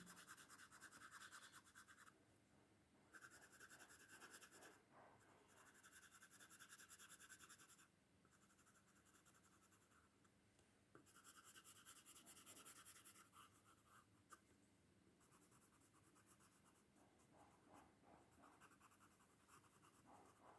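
Pencil shading on paper, a faint scratching in several passes of a few seconds each with pauses between them, then lighter short strokes near the end.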